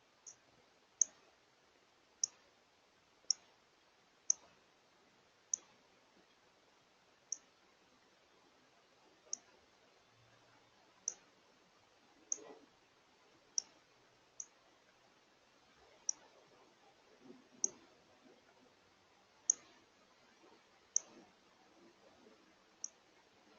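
Northern cardinal giving sharp, high chip calls, one every second or two at irregular intervals, with faint rustling in between.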